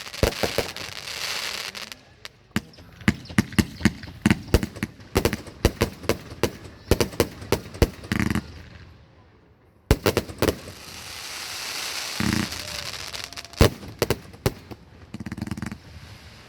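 Fireworks going off: a rapid string of sharp bangs and crackles, a brief lull about nine seconds in, then more bangs.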